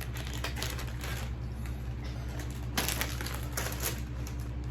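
Irregular light clicks and crackles from objects being handled at a table, over a steady low hum.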